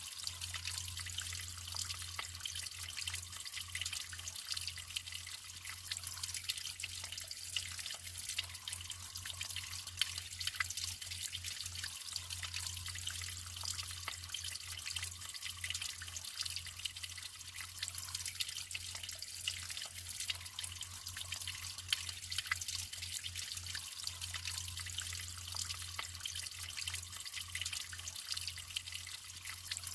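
Natural water trickling and dripping steadily, a dense patter of small splashes over a constant low hum.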